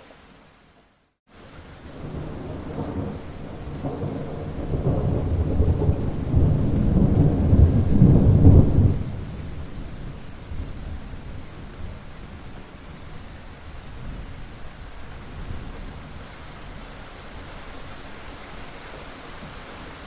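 Steady rain with a long rumble of thunder that builds over several seconds, peaks about eight seconds in and then fades back into the rain. The sound cuts out briefly right at the start.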